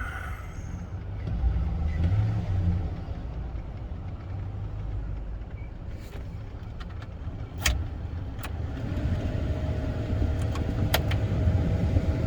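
Chevy Silverado pickup's engine idling steadily, running smoothly with no knock, with a brief rise about two seconds in. A few sharp clicks sound over it in the second half.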